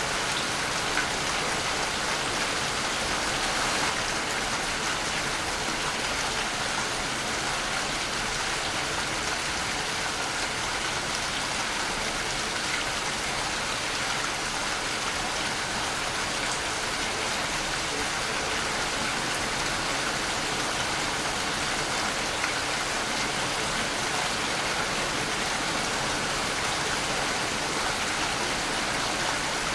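Waterfall: a steady, even rush of falling water, strongest in the higher range, with no pauses or changes.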